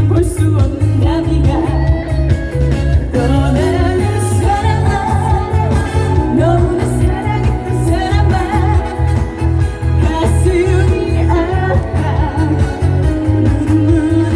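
Korean trot song performed live: a woman singing with vibrato over a backing track with a steady, heavy bass beat.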